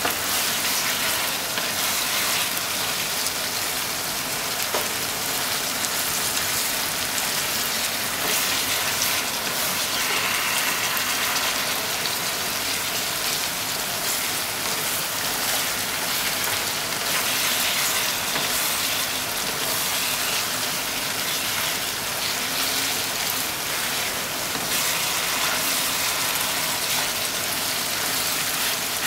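Eggplant, minced pork and onion sizzling in a hot frying pan: a steady frying hiss.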